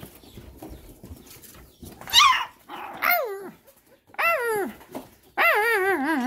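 Pit bull puppy whining: four high cries, each sliding down in pitch, starting about two seconds in, the last one longer and wavering.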